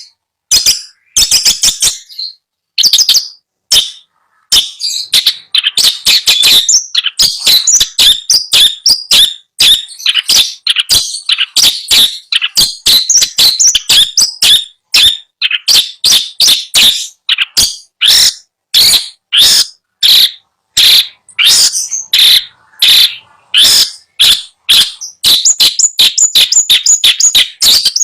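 Long-tailed shrike (cendet) singing: a rapid run of short, sharp, high chattering notes, in short phrases at first and then an almost unbroken stream of several notes a second from about four seconds in.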